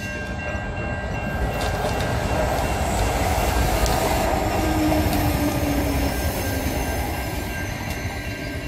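Passenger railcar train passing close by over a level crossing, its wheel and engine rumble building to a peak about halfway through and then easing off.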